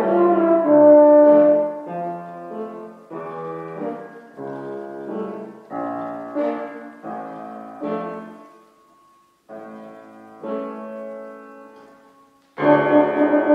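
Orchestral music led by brass, with French horn prominent: a loud held passage eases into softer, separated chords with short pauses, then the full ensemble comes in loudly near the end.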